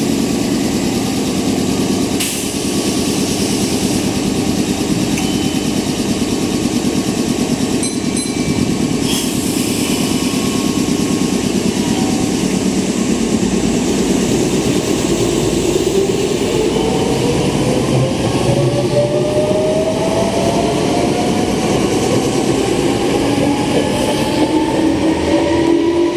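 Meitetsu 6000 series electric train pulling away from the platform: a steady heavy rumble, a few short clicks in the first half, then from about halfway the traction motors' whine rising steadily in pitch as the train gathers speed.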